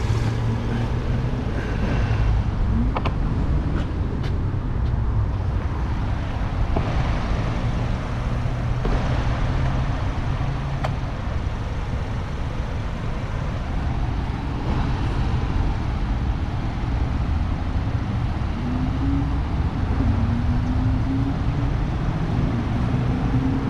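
Steady low rumble of car engines and traffic, with a few rising engine notes near the end.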